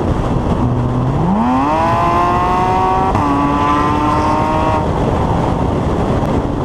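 Porsche 981's flat-six with an Armytrix valved exhaust, revving up hard under acceleration from about a second in. Its pitch steps down once at an upshift about three seconds in, then climbs again until the driver lifts off near five seconds, leaving road and wind noise.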